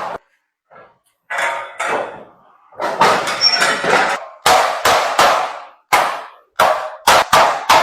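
Hammer blows on sheet iron, each strike ringing briefly, closing down a folded seam lock on a large sheet-metal basin. The blows come a little over a second apart at first and speed up to several a second near the end.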